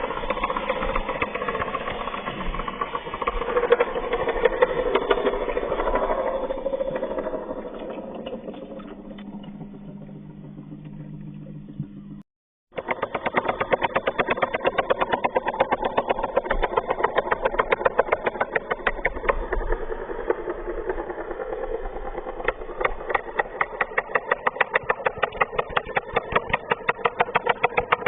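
Geared electric motor of a homemade mini tractor running with a steady mechanical whir and rattle. The sound cuts out briefly about twelve seconds in, then resumes as a fast, regular clatter.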